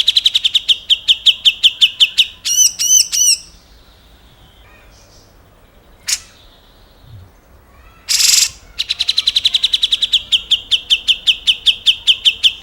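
Grey-cheeked bulbul (cucak jenggot) song: a fast rattling run of sharp notes, about ten a second, sliding slightly down in pitch, then three arched whistled notes. After a pause of about four seconds, a harsh rasping note about eight seconds in leads into another long, fast rattle.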